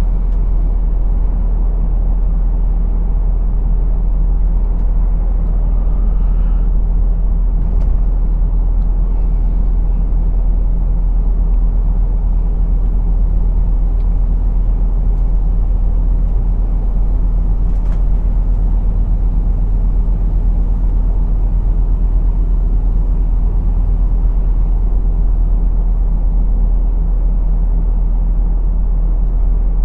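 Truck's diesel engine running steadily under way, a constant low rumble with road noise, with one brief click a little past halfway.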